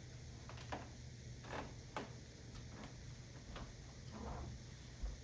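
Faint, irregular small clicks and light scratches from the parrots, about half a dozen spread out, with a dull low thump near the end.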